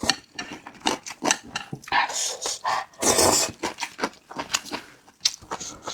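A person eating close to the microphone: two long, noisy slurps about two and three seconds in, with wet chewing and lip-smacking clicks in between.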